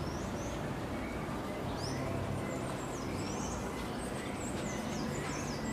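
Small birds chirping in short, quick calls, sparse at first and coming thick and fast from about three seconds in, over a steady low background noise.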